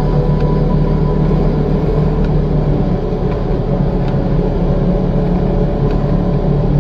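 Motor vehicle's engine running at a steady drone, with no change in pace.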